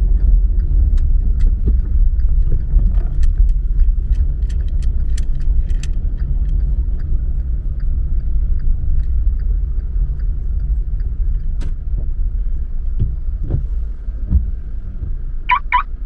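A car driving through city traffic: a steady, loud low road and engine rumble with scattered light ticks. Two short high chirps come near the end.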